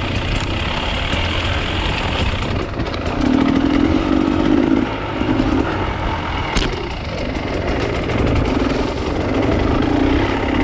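Off-road enduro motorcycle engine running, swelling louder for a couple of seconds at a time, with one sharp click partway through.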